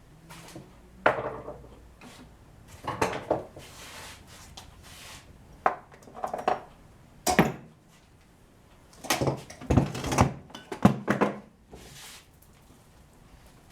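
Irregular knocks, clunks and clatters of parts and hand tools being handled at a workbench. The loudest hit comes about seven seconds in, and a quick cluster follows between about nine and eleven seconds.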